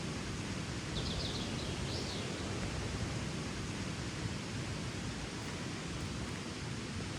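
Steady rush of a river, with a small bird's few short high chirps about a second in.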